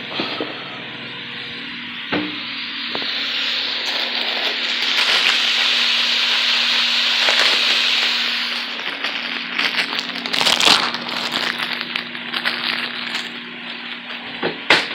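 Ground beef frying in a pot: a steady sizzle that swells for a few seconds midway, then breaks into scattered crackles and pops. A faint steady hum lies underneath.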